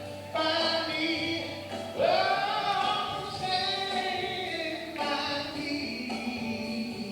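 Singing with music: long held sung notes, a new one every one to three seconds, with a swoop up in pitch about two seconds in.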